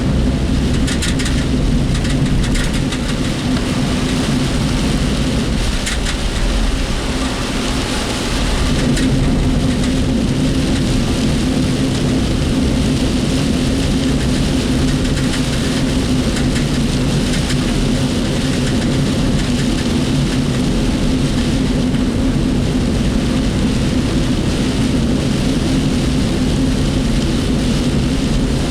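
Inside a work vehicle's cab while driving in typhoon rain: steady engine and road noise, with rain hitting the body and the cab rattling.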